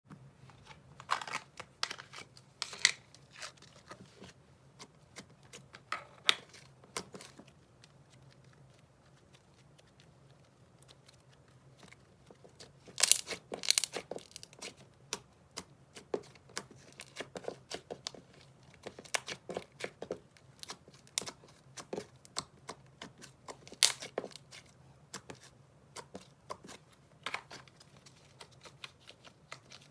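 Slime being played with by hand: irregular sticky crackles, clicks and pops as it is squeezed and stretched. There is a quiet spell about a third of the way in, then a dense cluster of pops just before halfway.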